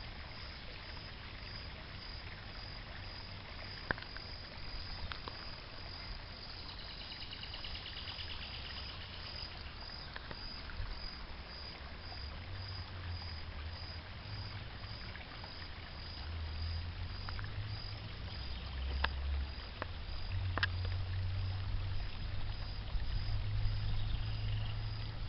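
Woodland ambience: a high, evenly pulsing insect-like chirp that runs on steadily, a short warbling trill about a third of the way in, and a few sharp clicks. Under it is an uneven low rumble that gets louder in the second half.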